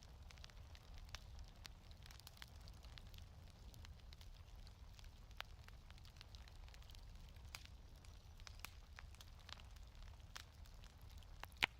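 Wood fire crackling faintly in a fireplace, with scattered small pops and one sharper pop near the end, over a low steady rumble.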